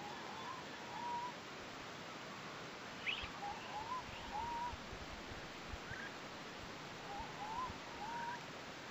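Birds calling: one repeats a short phrase of two or three quick, hooked, rising notes about every three seconds, with thinner, higher chirps from another bird in between, over a steady hiss of ambience.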